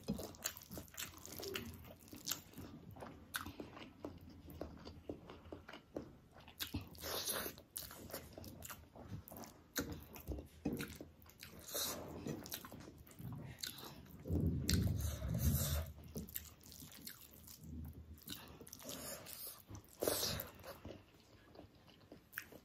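A person chewing a mouthful of rice and egg curry close to the microphone, with many small clicks from the mouth and a louder stretch about two-thirds of the way through.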